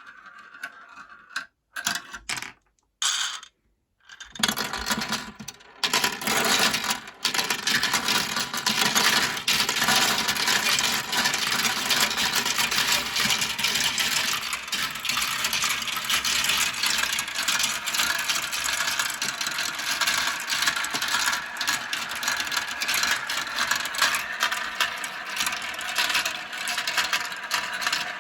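Many marbles rolling and clattering down the plastic slope pieces of a kumikumi marble run. A few separate clicks come first, then about four seconds in the sound turns into a dense, continuous rattle.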